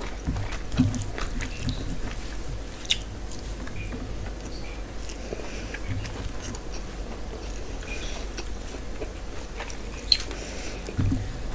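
Close-up chewing of a mouthful of rice and mutton curry, with soft wet mouth sounds and scattered faint clicks. Fingers mix and pick at the food now and then.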